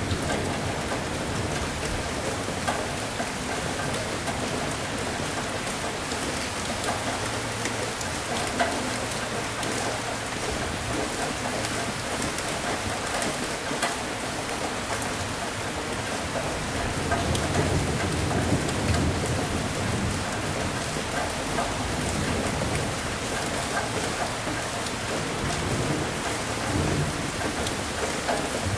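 Steady heavy rain, with drops pattering on a surface, under low rolling thunder that swells and fades, loudest about two-thirds of the way in.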